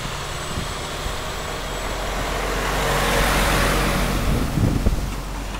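A road vehicle passing by, its tyre and engine noise swelling to a peak about three seconds in and fading, over a steady low rumble.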